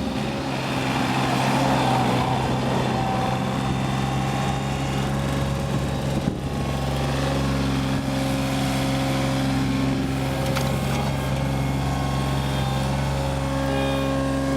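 The John Deere 3235B fairway mower's Yanmar 3TNE84 three-cylinder diesel engine runs at a steady speed while the mower is driven in four-wheel drive.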